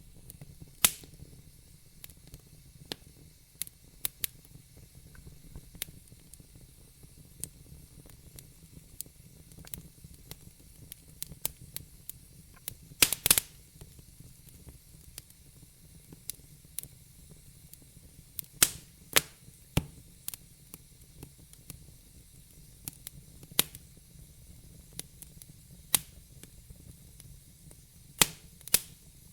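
Wood logs burning in a fireplace, crackling with irregular sharp snaps and pops over a soft steady hiss. A quick run of louder pops comes about 13 seconds in.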